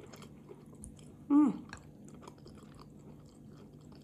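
A person chewing a mouthful of pap (stiff maize porridge) with sauce, with faint small wet mouth clicks. About a second and a half in there is one brief vocal sound that falls in pitch.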